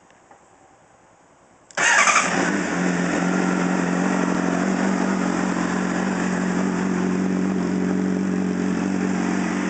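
A 2007 Honda CBR600RR's inline-four engine starting about two seconds in, flaring loudly for a moment as it catches, then settling into a steady idle through a full Akrapovic race exhaust.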